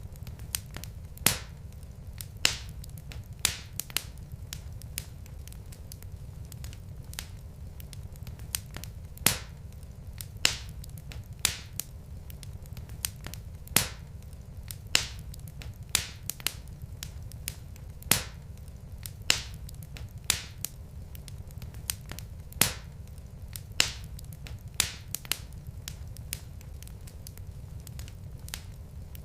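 Log fire crackling: irregular sharp pops and snaps, roughly one a second with a few much louder ones, over a steady low rumble.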